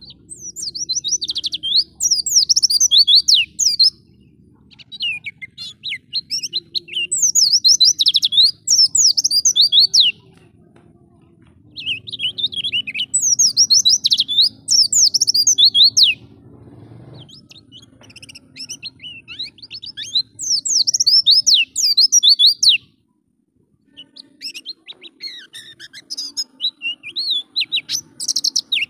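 White-eye (pleci) singing in fast, high-pitched warbling phrases of about three to four seconds each, about five phrases with short pauses between them.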